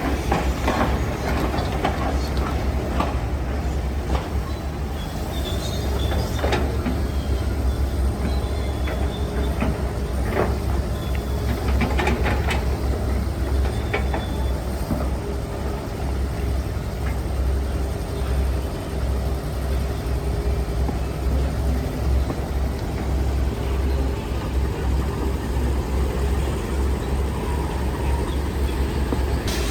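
Heavy diesel earthmoving machinery running steadily with a deep low rumble, with scattered metallic clanks and knocks from the working machine.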